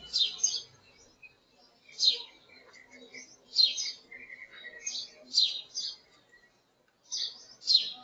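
Birds chirping: loud, short chirps that sweep down in pitch, repeated every second or two, with quieter twittering between.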